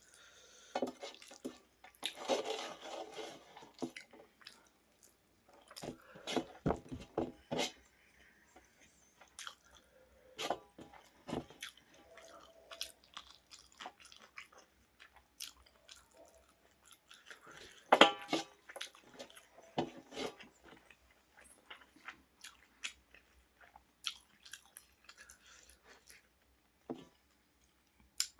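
A person eating chilli chicken close to the microphone: irregular chewing, biting and crunchy mouth sounds, with one louder crunch about two-thirds of the way through.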